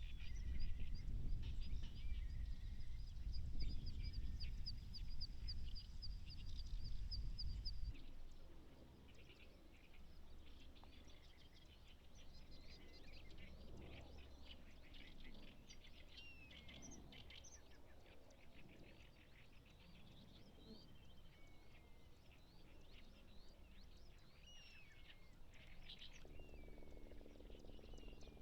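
Wild birds chirping and calling: a fast run of high chirps over a low rumble, then, after an abrupt change about eight seconds in, scattered short calls and falling whistles over a quieter background.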